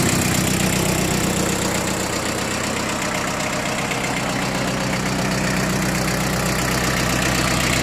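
Mitsubishi MT2201 compact tractor's four-cylinder diesel engine idling steadily.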